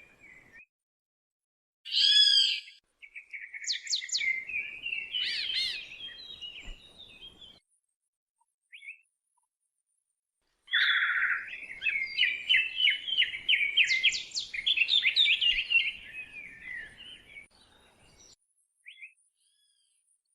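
Songbird singing: rapid, varied chirping and warbling phrases in two long bursts, the first about two seconds in and the second, the loudest, a little past ten seconds in, with full silence between them.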